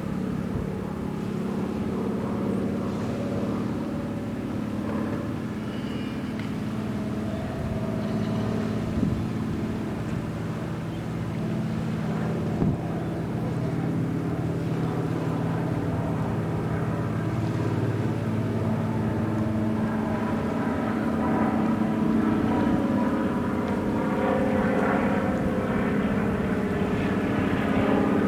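A large engine droning steadily, slowly growing louder toward the end, with a couple of faint knocks along the way.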